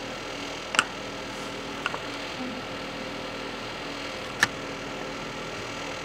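Steady hum of a household cooling appliance, with three short sharp clicks, the loudest about four seconds in.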